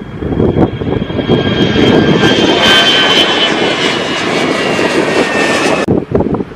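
Airliner engines passing, with a high whine that sinks slightly in pitch, over wind noise on the microphone. The whine cuts off suddenly near the end.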